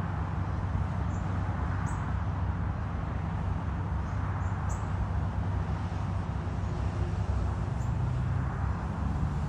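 Small birds giving short, high chirps about six times, one or two seconds apart, over a steady low rumble.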